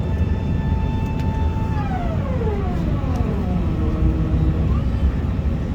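Airbus A380's GP7200 jet engines heard from inside the cabin: a steady roar under a whine that falls in pitch about two seconds in as the engines throttle back, with a rising whine starting near the end.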